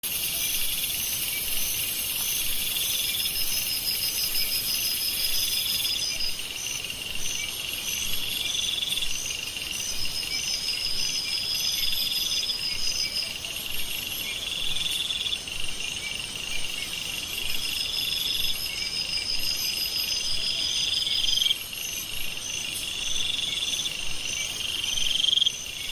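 A chorus of crickets and other insects: a steady high pulsing chirp, a rising buzzy call repeating about every two seconds, and a higher trill that comes and goes.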